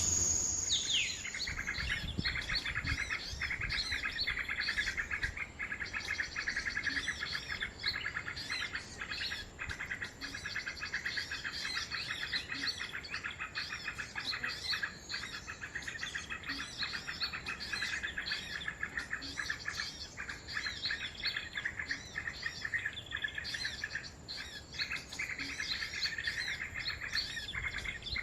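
Small songbirds chirping and trilling, many quick high calls overlapping without a break, with a thin steady high tone behind them.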